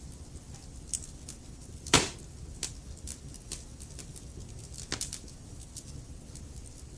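Wood fire burning in a fireplace: logs crackling with scattered sharp pops over a low steady rumble, one loud pop about two seconds in.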